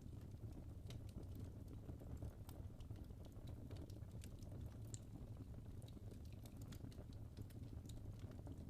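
Logs burning in a fireplace: irregular small crackles and pops over a low, steady rumble.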